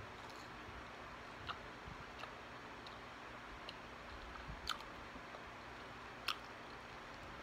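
A person chewing french fries with the mouth closed: soft, scattered wet mouth clicks every second or so over a steady hiss, the loudest near the end.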